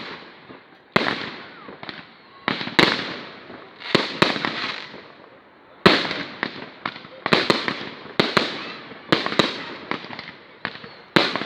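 Fireworks display: shells bursting in an irregular series of sharp bangs, each trailing off in a long echoing decay, the bangs coming quicker and closer together in the second half.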